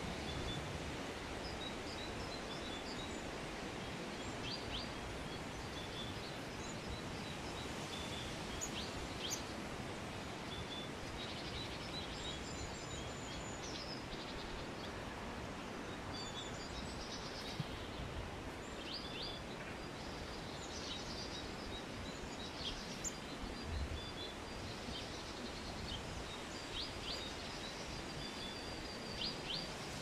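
Small birds chirping and trilling in short, high calls on and off throughout, over a steady outdoor background hiss.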